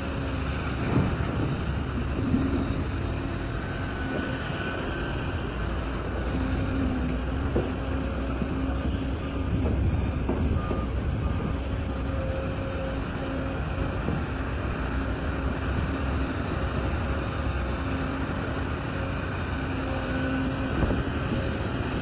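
Large mining excavator at work: a heavy diesel engine runs with a steady low rumble under load. Steady tones come and go above it, and there are a few short knocks near the start.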